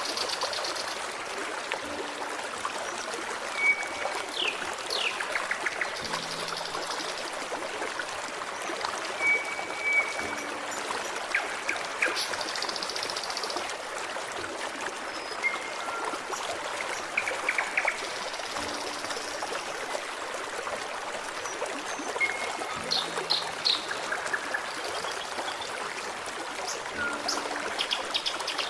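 A forest stream running steadily, with small birds calling over it every few seconds in short chirps, brief whistled notes and quick trills.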